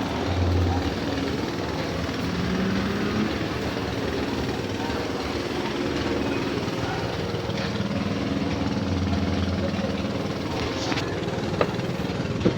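Nissan Frontier pickup's engine running steadily, with two sharp clicks near the end.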